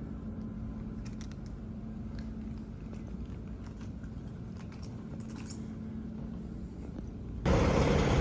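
Indoor room tone: a steady low hum with a few faint clicks and rattles. Near the end it gives way suddenly to much louder outdoor noise with traffic.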